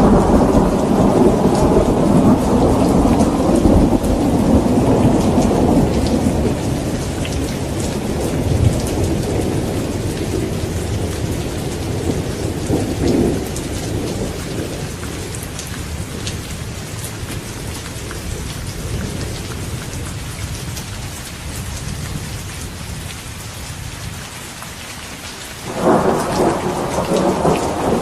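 Thunderstorm: steady rain falling while a long roll of thunder rumbles and slowly fades away, and a new thunderclap breaks in suddenly near the end.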